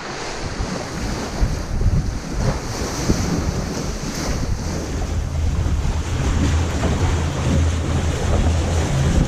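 Wind buffeting the microphone over the rush of open-sea waves, aboard a sailing catamaran running downwind. The low wind rumble grows heavier in the second half.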